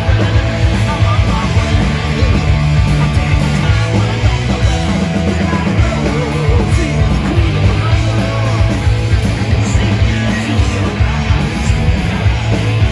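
Loud rock music with distorted electric guitars, bass, drums and singing, in a punk-rock style.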